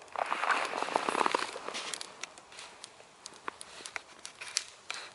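Footsteps crunching on packed snow for about the first second and a half, then a twig campfire crackling with scattered sharp pops.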